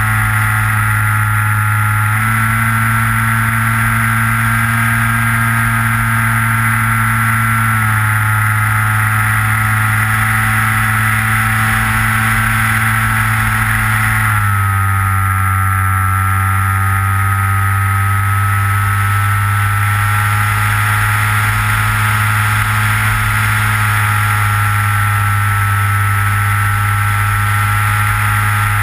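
The electric motor and propeller of a Skywalker FPV plane running steadily, heard from the camera on board. The pitch steps as the throttle changes: up about two seconds in, down around eight seconds and again around fourteen seconds, and up near the end.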